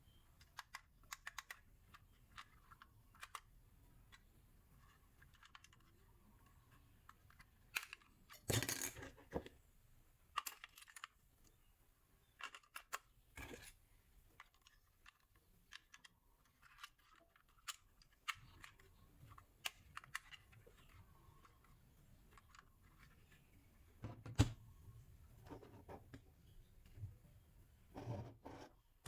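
Scattered small clicks, taps and rustles of hands handling a toy and its packaging, with a louder clatter about nine seconds in and a sharp knock near the end.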